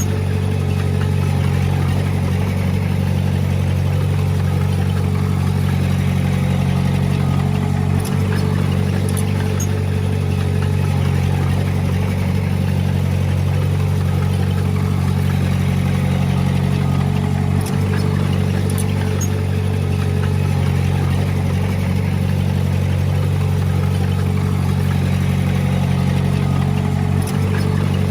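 Diesel engine of heavy earthmoving equipment running steadily, a constant low drone with a steady hum above it, broken by three brief dips about ten seconds apart.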